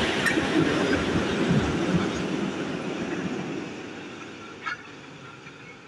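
A train on the rails, hauled by a VL10 electric locomotive, running past and fading away as it recedes. Its wheel rumble and rail noise die down steadily. There is one sharp click near the end.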